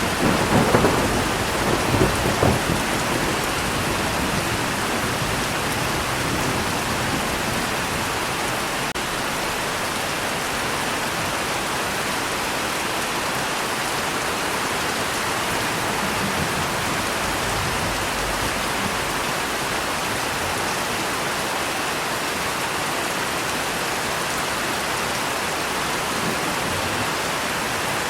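Steady heavy rain, with a rumble of thunder in the first few seconds that swells twice and fades, and a fainter rumble about halfway through.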